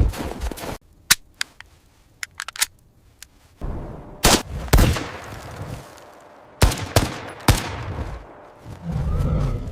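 Gunshots: a handful of faint, quick cracks about a second in, then five louder shots with an echoing tail over the next few seconds.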